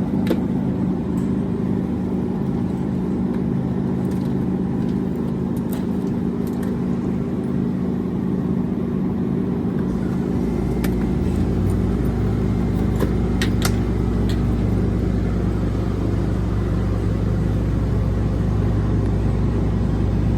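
Steady car engine and road hum. A deeper low rumble comes in about halfway through and stays, with a few light clicks scattered through.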